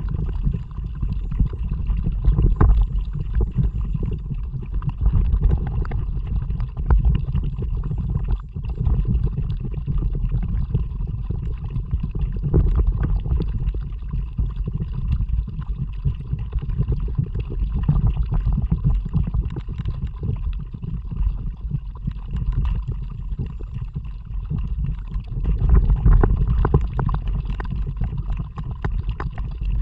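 Kayak under way: water gurgling and sloshing against the hull with paddle strokes, under a heavy low rumble of wind on the microphone that swells and eases unevenly.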